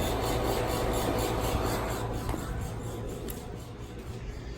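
Lennox Elite Series central air-conditioner condensing unit running with a steady hum, gradually fading over the last couple of seconds.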